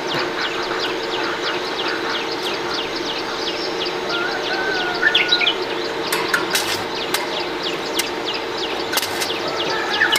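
Birds chirping in quick, evenly repeated short calls over a steady hum, with a few sharp knocks about six and nine seconds in.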